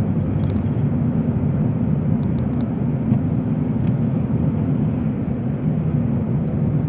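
Steady road and engine rumble heard inside a moving car's cabin, with a few faint light ticks.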